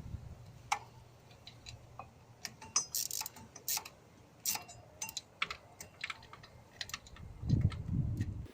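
Irregular sharp clicks and taps of metal hand tools being worked on an engine during a belt change, with a muffled low knocking near the end.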